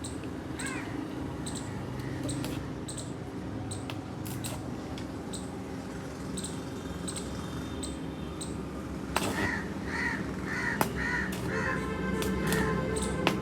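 Crows cawing: one caw near the start and a run of about five quick caws about two-thirds of the way in. Under them are sharp, evenly spaced clicks and a steady low hum.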